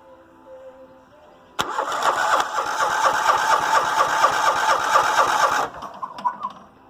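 John Deere riding mower engine cranked by its electric starter for about four seconds with an even, rhythmic chug from the compression strokes, then cut off. It doesn't fire: a safety switch is probably keeping it from sparking, and it sounds like it has good compression.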